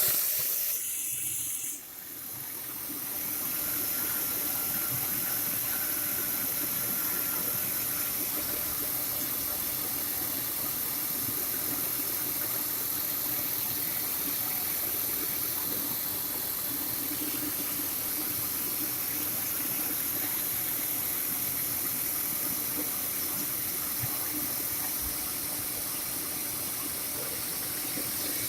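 BMW E39 2.5-litre inline-six engine starting and then running steadily. There is a loud burst at the start and a brief dip about two seconds in, then an even, hissy running sound.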